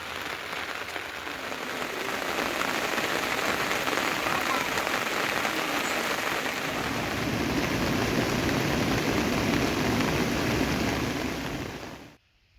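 Steady rain falling, an even hiss that grows heavier and fuller about halfway through, then cuts off suddenly shortly before the end.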